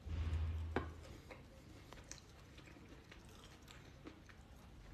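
A person chewing a mouthful of bean salad, faint, with small scattered clicks. A short low hum runs through the first second, and a sharp click comes about a second in.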